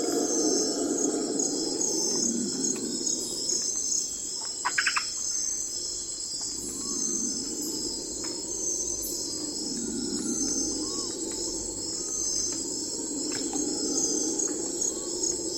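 Night forest ambience: crickets chirping in steady, evenly pulsed trains over a low hiss that swells and fades. A brief rattling call comes about five seconds in, with a few faint short calls after it.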